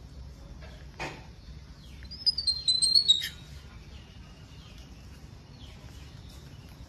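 A bird chirping: a quick run of high, gliding chirps about two seconds in, the loudest sound. There is a single short knock about a second in, over a faint steady background.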